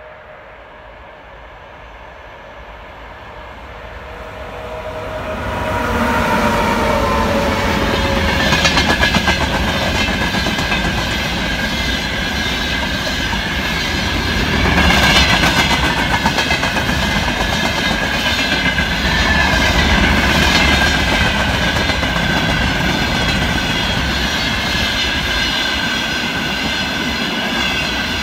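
Electric-hauled freight train approaching and passing close by. A tone from the locomotive falls in pitch as it goes past about five to eight seconds in. The rumble and clickety-clack of hopper and tank wagon wheels over the rail joints follows, with a steady high ringing tone running along with it.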